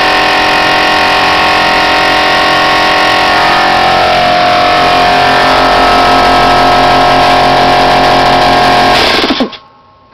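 Husky 20-gallon air compressor running steadily under load, then shutting off a little after nine seconds in and spinning down with a brief falling whine, having reached its cut-out pressure of a little below 160 psi.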